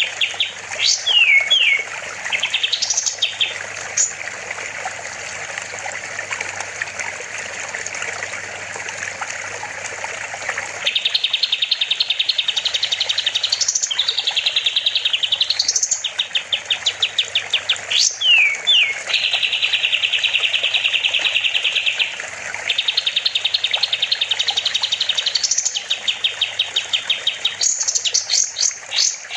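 Kapas tembak (pied triller) singing loud, fast trilled phrases of rapidly repeated notes broken by quick rising and falling whistles. A rushing water sound runs under the song for the first third.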